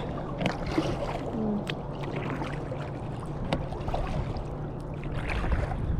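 Kayak paddling: paddle blades dipping and water trickling and splashing, with a few sharp knocks against a steady low rumble.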